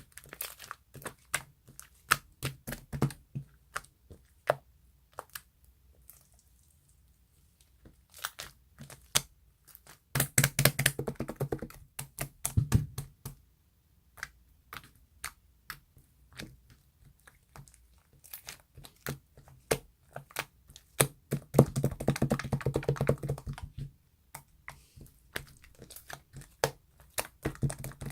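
A string of sharp clicks and taps, irregular at first, with two dense, rapid runs of louder tapping about a third and three-quarters of the way through.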